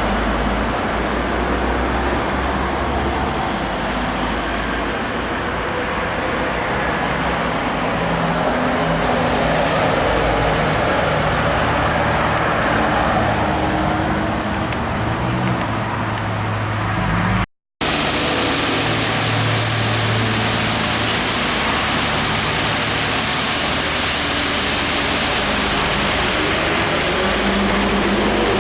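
Expressway traffic: trucks and cars passing, with engines running and tyres hissing on the road surface, a steady wash of noise. It drops out for a split second about two-thirds of the way through.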